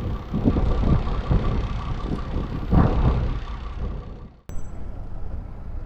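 A motor vehicle engine running, heard as a low rumble with noise over it. About four and a half seconds in the sound cuts off abruptly and resumes as a quieter, similar rumble.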